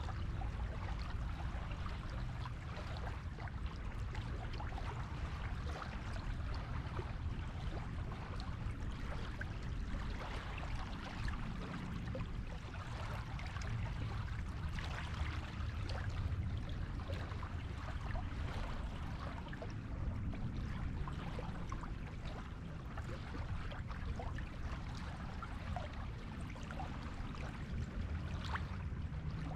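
Surf on a beach: a continuous rush of waves washing in and out, with a low rumble underneath and a fine crackle of foam and wash. The level stays steady, with no single breaker standing out.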